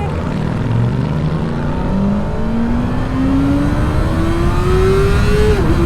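Kawasaki ZX-6R inline-four engine accelerating under way, its pitch climbing steadily through the rev range, then dropping sharply near the end. Wind rumble runs underneath throughout.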